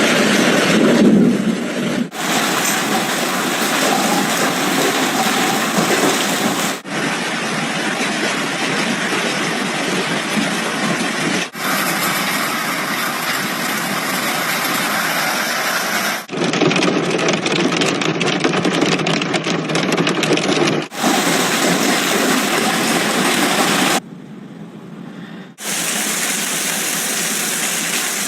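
Heavy hail and rain pelting down in a series of separately recorded clips, a dense, loud clatter that changes abruptly at each cut, with one quieter stretch near the end.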